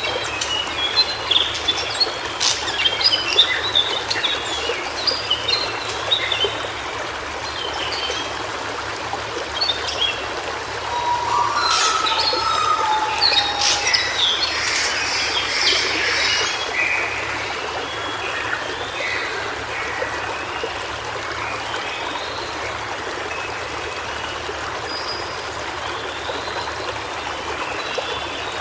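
White-browed shortwing singing a rambling run of quick high twittering notes over the steady rush of a flowing stream. The song is busiest early on and again in the middle, where a lower whistled phrase joins in, and thins out toward the end.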